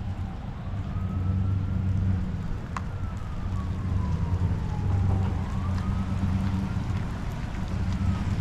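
Truck engine running with a steady low drone, and a faint siren wailing slowly up and down in the distance.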